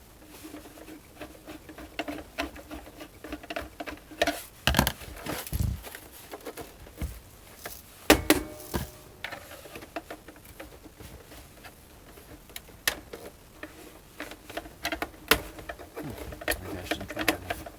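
Screwdriver turning a screw into a boombox's plastic case, with many small scratchy clicks and scrapes as parts are handled, and a few louder knocks, the loudest about eight seconds in.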